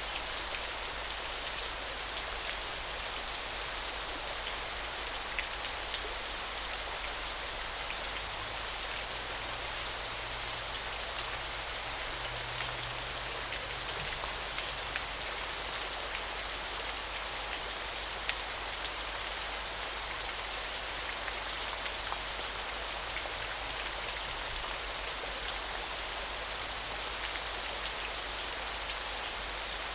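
River water rushing steadily with a continuous hiss. Over it, a thin, high, even note sounds again and again in spells of one to two seconds.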